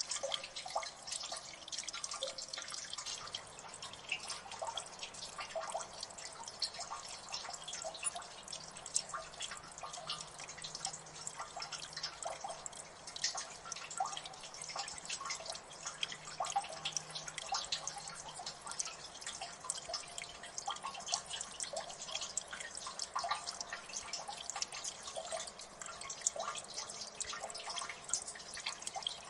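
Many water drops falling and splashing, an irregular stream of small ticks and plinks several a second, over a steady faint wash of trickling water.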